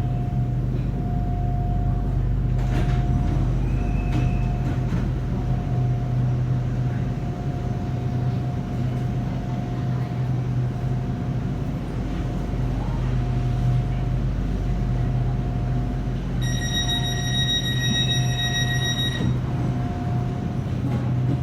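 Hitachi-built Red Line electric commuter train running, heard from inside the carriage: a steady low hum and rumble with a faint constant whine. Near the end a high electronic tone sounds for about two and a half seconds.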